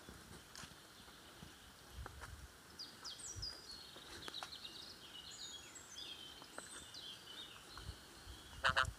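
A songbird singing a long run of quick, high notes that step downward in short phrases, faint against quiet forest ambience. A brief sharp rattle sounds just before the end.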